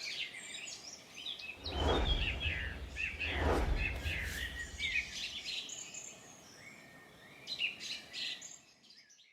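Birds chirping and calling in many short, overlapping chirps and trills. A low rumble swells and fades between about one and a half and four and a half seconds in.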